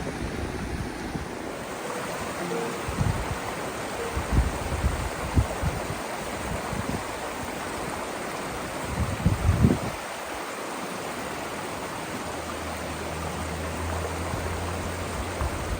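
Mountain creek water rushing steadily, with a few low thumps a few seconds in and near the middle, and a low steady hum toward the end.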